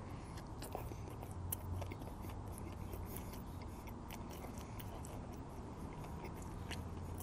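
A person chewing a mouthful of sandwich, with soft wet mouth clicks and smacks scattered throughout over a faint steady low hum.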